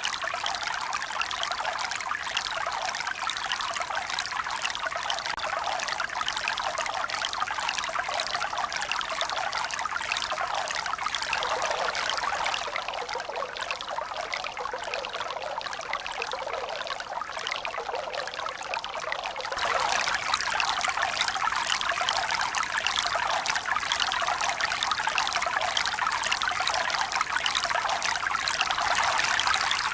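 Steady rush of running, trickling water. It turns a little quieter and duller for several seconds in the middle, then returns louder all at once.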